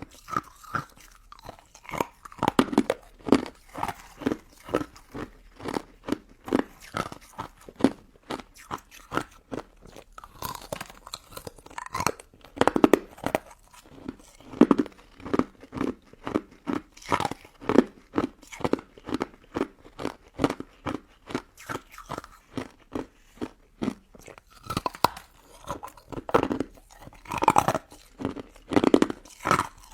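Close-up crunching and chewing of crystal ice dessert: many short, crisp crunches, several a second, as the icy pieces are bitten and chewed.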